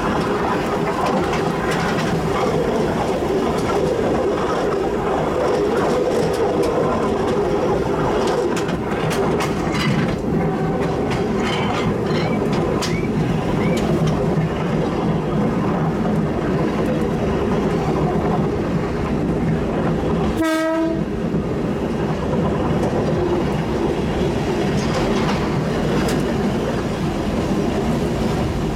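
Ex-Kanto Railway Kiha 350 diesel railcar running on jointed track, with steady running noise and the clickety-clack of wheels over rail joints. About two-thirds of the way through there is one short horn blast, as the train nears the station.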